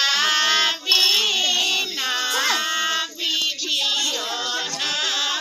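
A high-pitched voice singing, holding long notes and bending them up and down, with short breaks between phrases.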